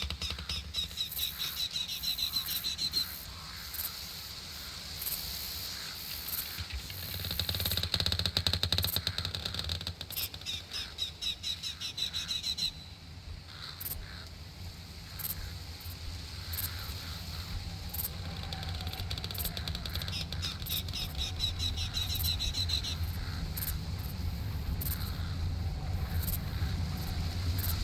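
Songbird singing a rapid trill, slightly rising and about three seconds long, that comes back about every ten seconds, with short chirps in between over a steady low rumble.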